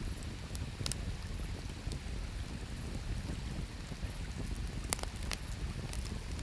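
Wood campfire crackling, with a few sharp pops: one about a second in and two close together about five seconds in. Under it runs a steady low rush of flowing river water.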